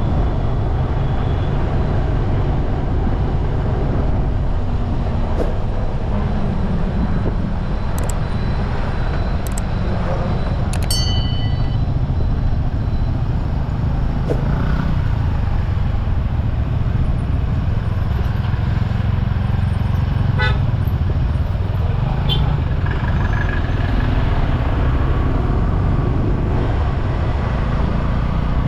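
Steady low road rumble heard from a moving bike in traffic. A vehicle horn toots briefly about eleven seconds in, and a quick run of short beeps comes about twenty seconds in.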